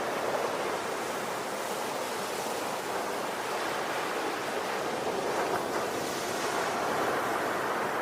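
Ocean waves washing onto a shore in a steady, continuous rush, swelling gently and easing off without any distinct breaking crash.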